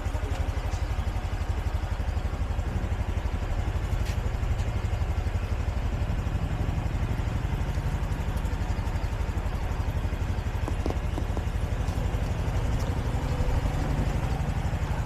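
Motorbike engine running steadily at low speed, with a continuous low pulsing throughout.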